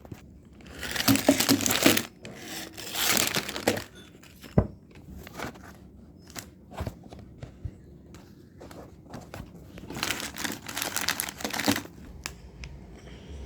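Plastic snack packaging of a Dark Fantasy Yumfills pie crinkling and tearing as it is opened, in three bursts, with small clicks and taps between them and one sharper click in the middle.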